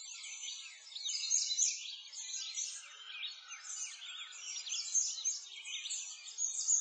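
A chorus of small songbirds, many quick high chirps and twitters overlapping without a break.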